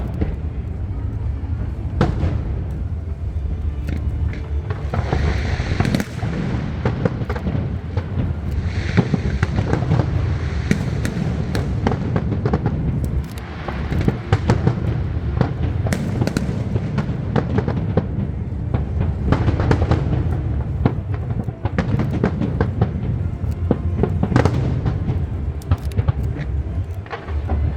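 Fireworks display: aerial shells going off in a rapid, irregular string of bangs and booms over a continuous low rumble, with stretches of crackling.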